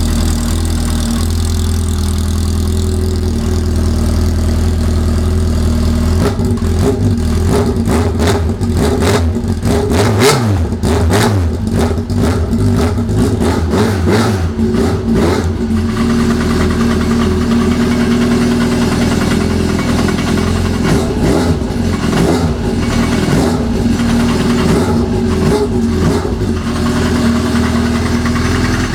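Yamaha RX-1 snowmobile's four-stroke four-cylinder engine breathing through a White Knuckle aftermarket exhaust with a MIG Concept extension: idling, then revved in a series of throttle blips for about ten seconds, then settling back to a steady idle with a few lighter blips.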